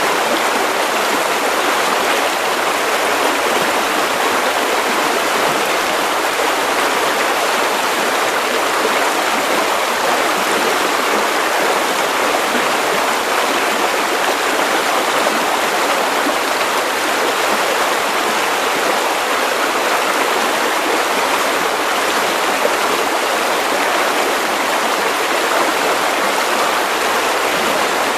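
Steady white noise for baby sleep: an even, unbroken hiss, fullest in the middle range with little bass, holding the same level throughout.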